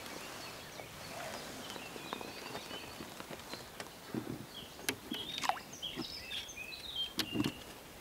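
Songbirds chirping over quiet outdoor ambience, with a few sharp clicks and soft handling knocks.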